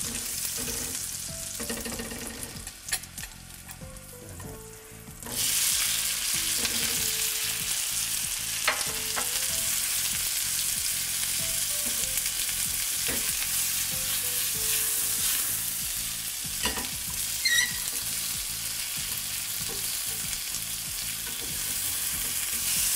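Mushrooms and tomato frying in melted butter in a nonstick pan, the sizzle jumping suddenly louder about five seconds in as they go into the hot butter, with a few clicks and scrapes of a spatula stirring them.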